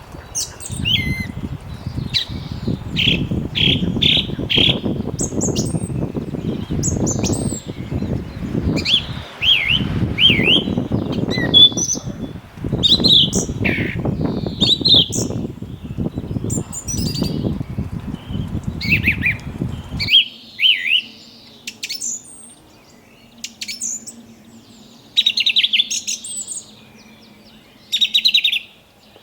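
Small birds chirping repeatedly while splashing and fluttering in water. The splashing stops abruptly about two-thirds of the way through, leaving only the chirps.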